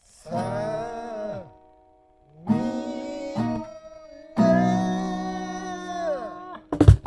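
Acoustic guitar played in three held phrases with a wavering sung melody over the chords, then a few quick strums near the end.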